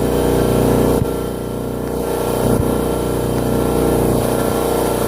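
Electric air compressor running steadily, its motor and pump giving an even mechanical hum with a few light knocks.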